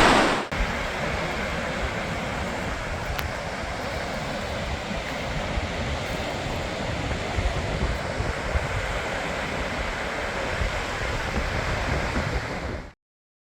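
Steady rushing of the Gullfoss waterfall, with wind buffeting the microphone in low gusts. It cuts off abruptly near the end.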